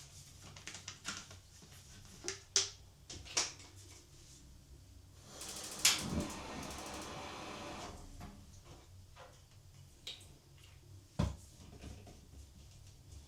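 Quiet household handling sounds: scattered light clicks and knocks, with a steady hissing rush lasting about two and a half seconds near the middle.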